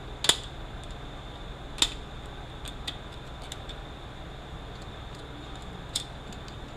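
Sharp metal clicks and clinks of hand tools on transmission parts, three louder ones with a brief high ring and several fainter ticks between, over a steady low hum.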